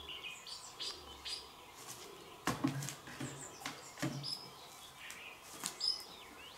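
Small birds chirping in short, high calls with a few whistled glides. Three sharp knocks, about a second and a half apart, stand out above them.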